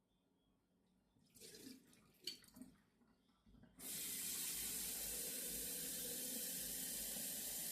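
A few light handling knocks, then about four seconds in a tap starts running steadily, hot water rinsing out a glass.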